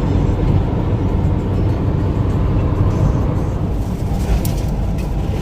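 Steady low road rumble and engine drone inside a moving car's cabin.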